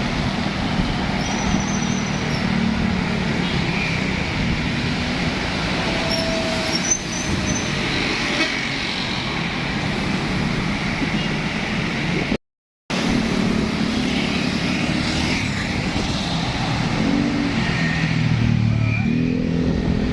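Road traffic with heavy trucks passing, a continuous engine and tyre roar, with a brief horn toot. The sound drops out for a moment about halfway through.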